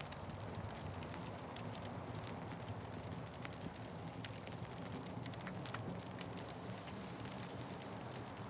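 Wood fire burning: a steady low rush with frequent small, irregular crackles and pops.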